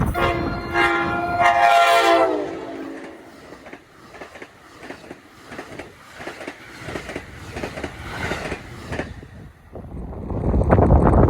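Passing train's multi-tone horn sounding for about two and a half seconds, its pitch dropping as the train goes by. Then the wheels click over the rail joints, fading away, and wind noise on the microphone picks up near the end.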